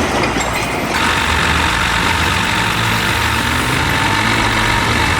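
Heavy vehicle engine running steadily, with a steady higher hiss and thin whine joining about a second in.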